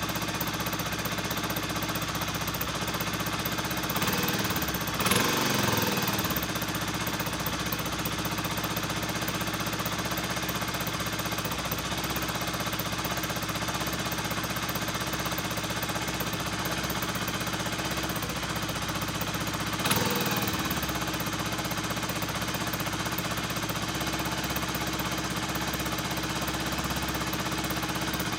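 Kawasaki Estrella's air-cooled single-cylinder engine idling steadily, briefly revved twice, about five seconds in and again about twenty seconds in.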